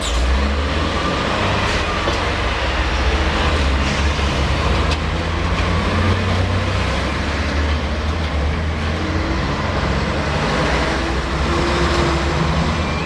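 A train running close by: a loud, steady rumble with the rush of wheels on rail and a few sharp clicks.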